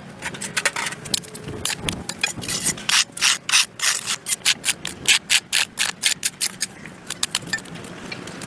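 A hand tool scraping over a concrete sidewalk in quick, uneven strokes, about three to four a second, clearing packed dirt and grass.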